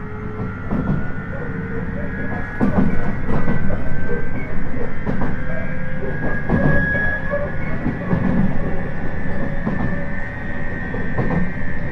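Interior running sound of a JR East 719 series electric train: low rumble with irregular wheel knocks over the rail joints, under a high steady whine that rises slightly in the middle. This car is known for its unusual jet-like noise.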